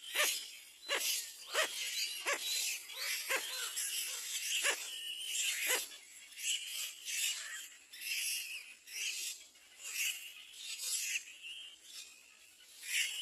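Bird calls: a series of short, sharp chirps that drop quickly in pitch, one or two a second, giving way about halfway through to faster, higher chirping.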